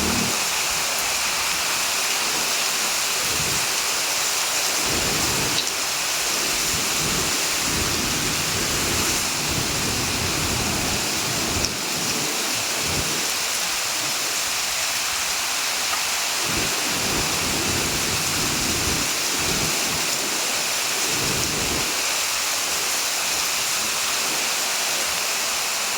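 Heavy rain falling steadily, a dense even hiss, with low rumbles swelling and fading every few seconds.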